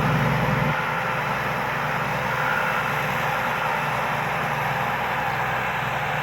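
Rice combine harvester's turbocharged Hino J2 diesel engine running steadily while harvesting; its low note drops away about a second in.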